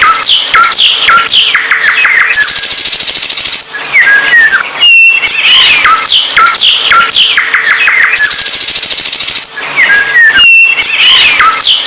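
A songbird singing loudly: quick descending whistled notes mixed with a fast buzzy rattle. The same song phrase repeats about every six seconds.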